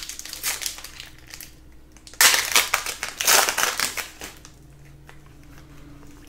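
Trading-card pack wrapper crinkling loudly for about two seconds, starting about two seconds in, among light clicks and taps of cards being handled.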